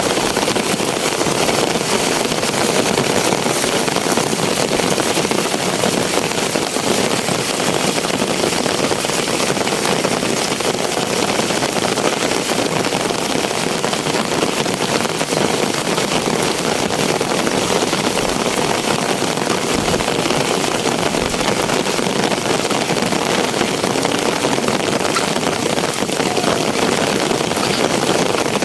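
Heavy rain falling steadily, a loud even hiss of rain on surfaces.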